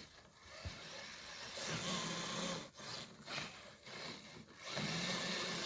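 Small electric motor and drivetrain of a radio-controlled crawler truck whining as it drives, in two spells: about a second and a half in for a second, and again from near the end.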